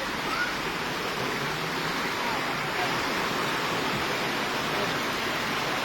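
Floodwater rushing steadily in a fast-flowing torrent after heavy rain.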